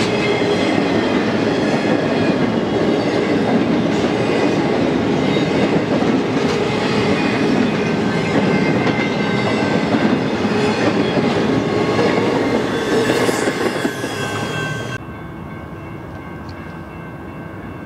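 Double-stack container well cars of a freight train rolling past at close range, wheels clattering over the rail joints in a steady rumble. A little after the middle it thins out, and near the end the sound drops suddenly to a much quieter, more distant rumble.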